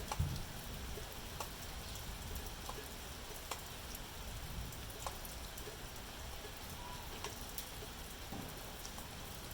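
Steady rain falling, with individual drops ticking sharply every second or two over a low rumble.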